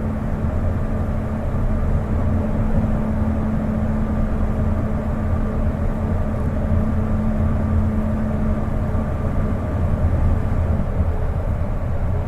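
Interior running sound of a Kobe New Transit 2020-series (Port Liner) rubber-tyred automated guideway car cruising between stations: a steady low rumble with a constant hum, and a higher steady tone that fades out about nine seconds in.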